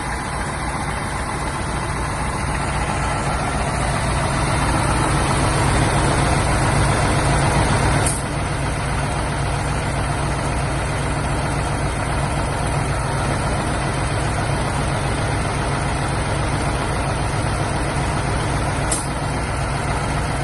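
LiAZ-5256 bus engine idling while its radiator cooling fan, switched on by a forced cooling request, spins up with a rushing noise that grows over the first few seconds. About eight seconds in there is a click and the fan noise drops away as the request is cut. Another click comes near the end.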